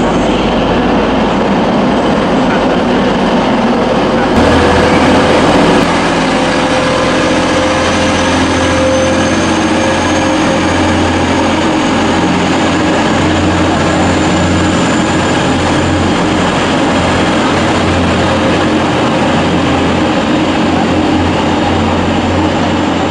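TransPennine Express multiple-unit trains moving through the platforms: a loud, steady low engine drone that strengthens about four seconds in, under a faint high whine that slowly rises.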